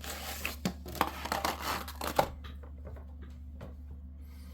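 A model-train cardboard box being opened by hand: about two seconds of scraping and rustling with a few sharp clicks as the lid comes free, then only faint handling ticks.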